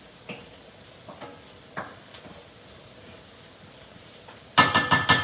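Faint sizzle of onions, garlic and sausage sweating in a braiser, with a few light ticks and scrapes of a wooden spoon stirring. About four and a half seconds in comes a short loud clatter with a ringing note, kitchenware knocking together.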